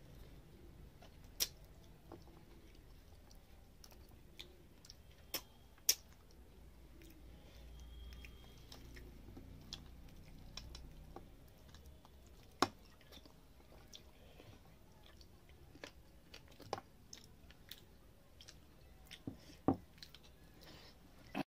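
Close-up chewing and wet mouth sounds of a person eating rice and fish curry by hand, with a handful of sharp clicks or smacks now and then. The sound cuts off suddenly at the very end.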